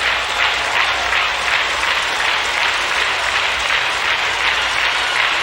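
A church congregation clapping hands together in a steady rhythm, a loud, even wash of claps.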